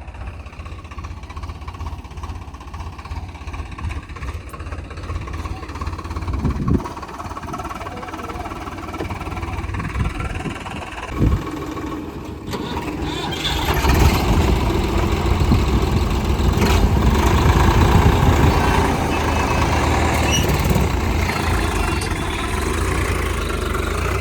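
Tractor's diesel engine running, a steady low rumble that grows louder about halfway through, with two short thumps before it.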